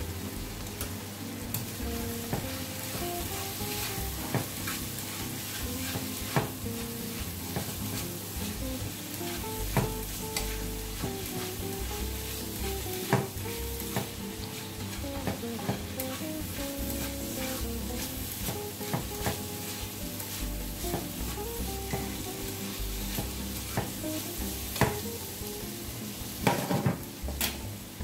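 Sliced pak choy, onion and bacon sizzling in melting butter in a frying pan, stirred and tossed with chopsticks that click against the pan every second or so, with a flurry of clicks near the end.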